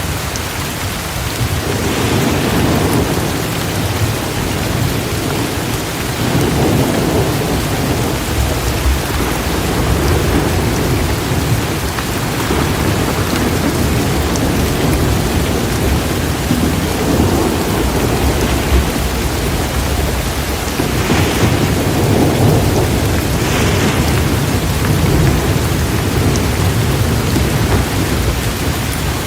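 Steady rain with low, rolling thunder that swells several times.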